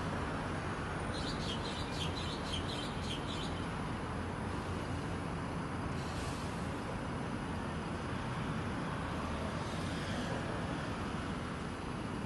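A small bird calling a quick run of high chirps, about four a second for roughly two seconds starting about a second in, with a few fainter notes later. Under it runs a steady low rumble of traffic-like background noise.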